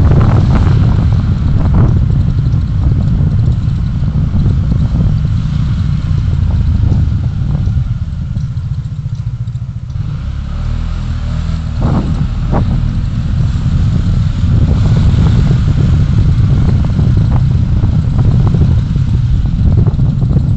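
Vehicle on the move recorded by a dashcam: a heavy low rumble of engine and road noise with wind buffeting the microphone and a few knocks. It eases for a few seconds about halfway through, then builds again.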